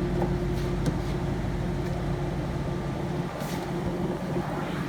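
Ford Mustang GT 5.0 V8 idling steadily with the air conditioning switched on, its hum level throughout with a few faint clicks.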